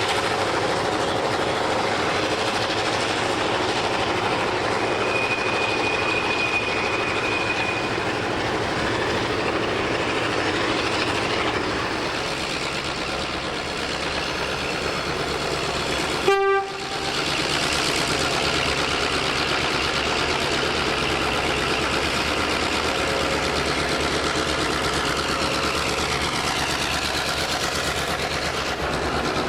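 Diesel locomotive running, a steady loud engine and rail noise that cuts out briefly and suddenly about halfway through, then carries on.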